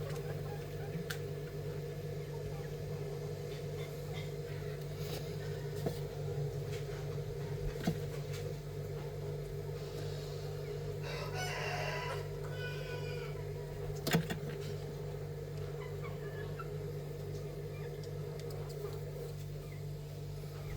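A rooster crows once, about halfway through, over a steady low hum, with a few light knocks and clicks.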